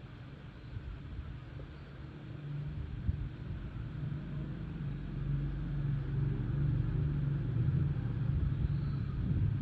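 Cat purring: a low, steady rumble that grows louder about two seconds in.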